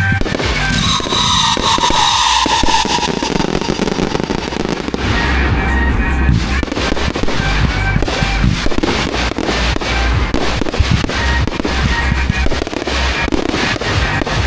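Fireworks going off in rapid, dense bangs and crackles, with a hissing shriek about a second in. Music with a heavy bass plays underneath.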